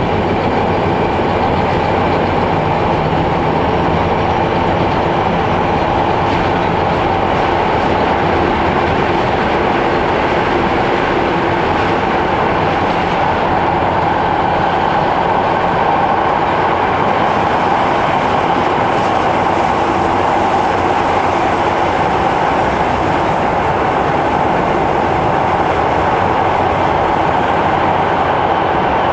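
Cabin noise of a Keihan 800 series electric train running at a steady speed through a subway tunnel: an even, unbroken running noise with a constant mid-pitched hum, no braking or acceleration.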